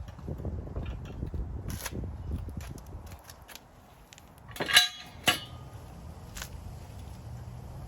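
Sharp metal clanks, the two loudest close together about five seconds in, after a few seconds of low rumbling handling noise.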